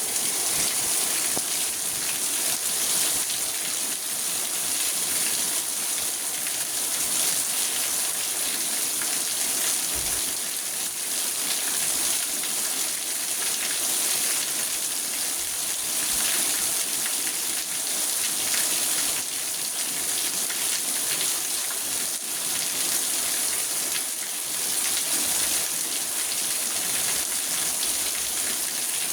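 Steady, dense rain falling on a car's roof and windows, heard from inside the car as an even patter of drops.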